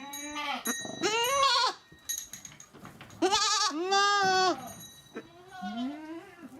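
Goats bleating: about six quavering bleats in a row, some in quick pairs, with short gaps between them.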